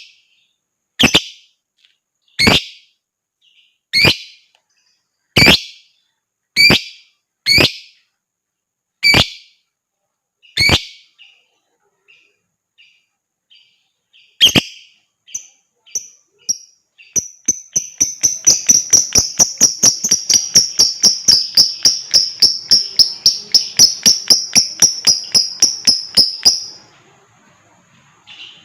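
Lovebird calling: loud, sharp single chirps about every one and a half seconds, then a few fainter short notes, then a long, rapid chattering trill of about nine seconds, the 'ngekek' song, which stops abruptly.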